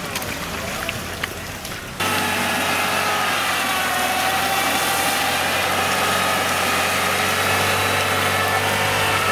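Chevrolet Niva SUV engine easing off its revs while pulling on a tow strap through deep mud. After an abrupt change about two seconds in, a Niva engine runs steadily at low revs as it crawls along a muddy track, its pitch wavering only slightly.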